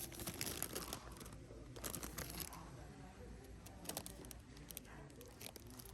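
Faint rustling and crinkling in a few short bursts, mostly in the first couple of seconds, over quiet background noise.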